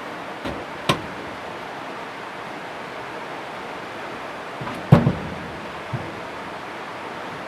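A few sharp knocks over a steady rushing background noise: one about a second in, a louder double knock around five seconds in, and a fainter one a second later.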